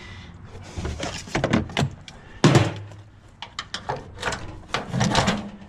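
Scrap pieces being knocked and rattled while being worked loose by hand: a string of clacks and clatters, with one loud thunk about two and a half seconds in.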